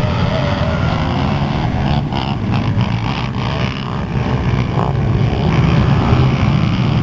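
Pit bike engines running and revving during a race, a dense, steady engine noise with some pitch glides.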